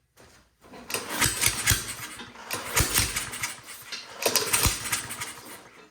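Honda lawnmower engine being pull-started, cranked twice, with several sharp popping backfires. The backfires are coming out through the intake because the intake valve is stuck open, so the engine makes no compression.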